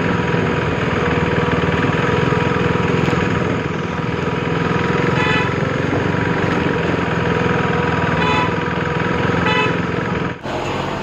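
Motorcycle engine running steadily under way, with three short high beeps about five, eight and nine and a half seconds in. The sound drops out abruptly near the end.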